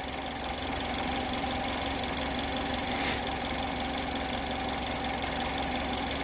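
2010 Chevrolet HHR's four-cylinder engine idling steadily, warmed up to the point where the thermostat is opening.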